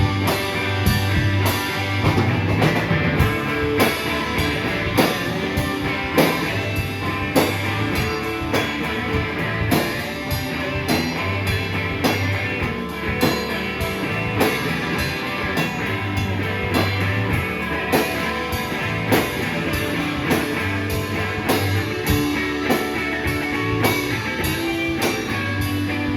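Live rock band playing an instrumental passage: electric guitars, bass and drum kit with a steady beat.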